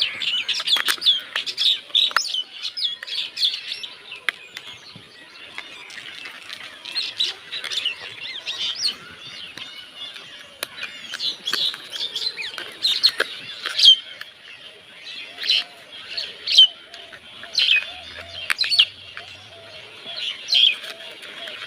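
Small birds chirping, many short high chirps in quick irregular runs.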